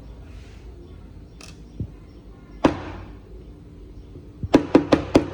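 Metal parts of a Denso common-rail injector being handled on the workbench: a few separate clicks, then a quick run of four or five sharp metallic knocks with a short ring near the end.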